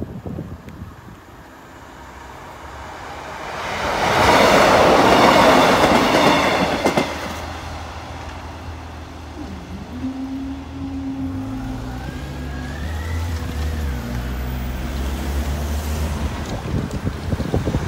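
Class 156 diesel multiple unit going over the crossing: a loud rush of wheel and engine noise about four to seven seconds in. It then dies down into the low, steady drone of its diesel engines as the train moves away.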